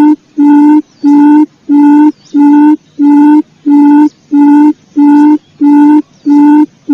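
Recorded quail lure call: a steady-pitched hooting note repeated evenly, about two a second, looping without change.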